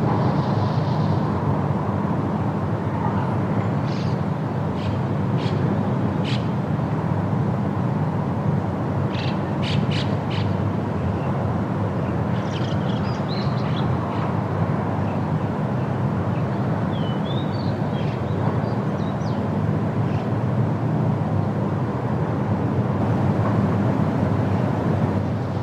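Steady, low wind noise in a forest, with scattered short bird chirps and a few whistled, gliding bird notes over it.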